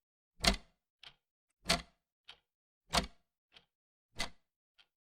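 Clock ticking, a louder tick alternating with a softer tock, about eight beats evenly spaced a little over half a second apart.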